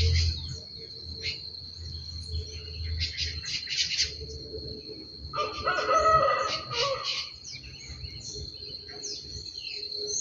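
Birds calling outdoors: one long call about two seconds long in the middle, with short chirps scattered throughout, over a steady high-pitched insect drone.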